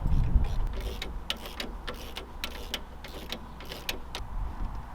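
Hand tools and metal parts clinking and knocking in irregular clicks, with a low thud just at the start.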